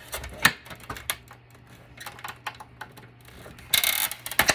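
Sharp clicks and clatter of hard plastic and metal parts being handled while a battery backup unit is taken apart, with a short scraping burst about four seconds in.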